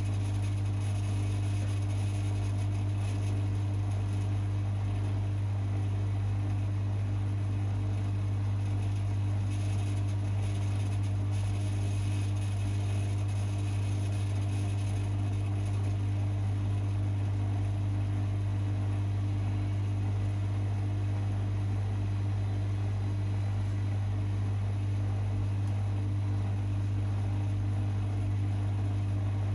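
Privileg 5020 front-loading washing machine running with a steady low hum and no change in pitch.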